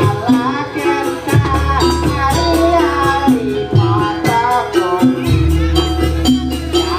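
Live traditional music accompanying a Banyuwangi barong/jaranan show: a singer's wavering melody over a repeating percussion pattern and a sustained bass.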